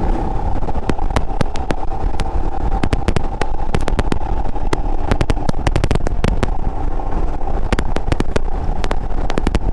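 Motorcycle riding on the road, its engine running steadily under a constant low rumble, with many short sharp crackles over it.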